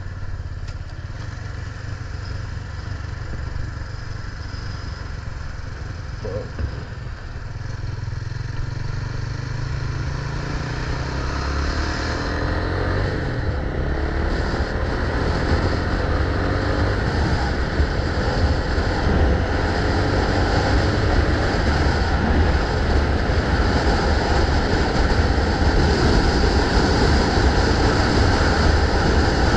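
Motorcycle engine running under way with wind rush on the microphone, getting louder as it speeds up from about a quarter of the way in, with faint rising engine tones.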